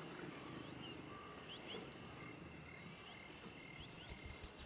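Steady high drone of an insect chorus, with faint short chirps recurring about once a second.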